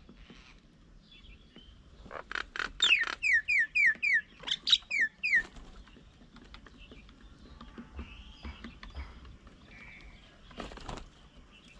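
A wild bird calling: a quick run of about eight short notes, each falling in pitch, after a few sharp clicks, then fainter calls.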